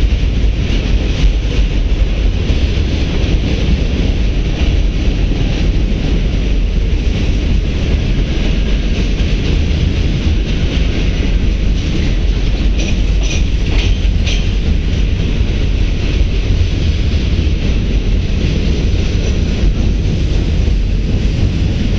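Freight cars rolling across a steel girder bridge: a steady, heavy rumble of wheels on rail, with a short cluster of sharp clicks a little past the middle.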